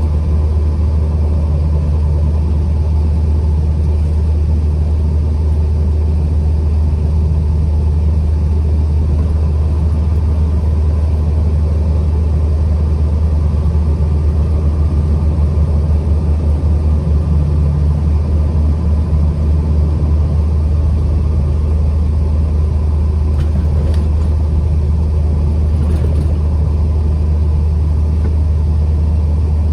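A truck being driven: steady, loud low rumble of engine and road noise.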